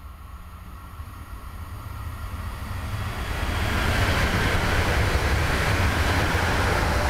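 agilis electric multiple unit passing at speed, its wheels rumbling on the rails. The sound grows steadily louder over the first four seconds as the train comes close, then holds at full loudness as the cars run by.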